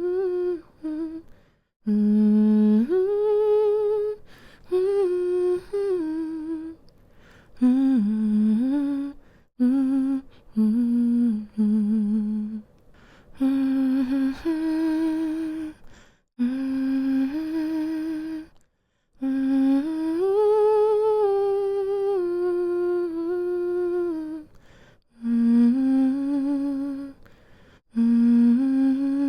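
A woman humming a slow, soothing melody to lull a baby to sleep: held notes of a second or two, gliding gently between pitches, with short pauses for breath.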